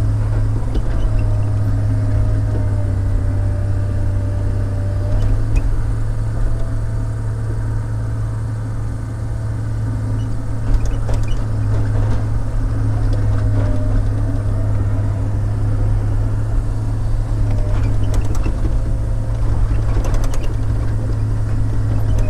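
Log loader's diesel engine running steadily with a constant low drone, with a few sharp knocks as the loader works logs.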